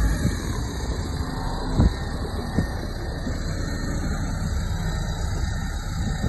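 SHANTUI bulldozer's diesel engine running steadily under load, a low rumble with a couple of sharp knocks about two seconds in.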